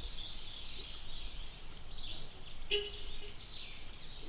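Small birds chirping and singing, many short warbling notes, with a single sharp click a little past the middle.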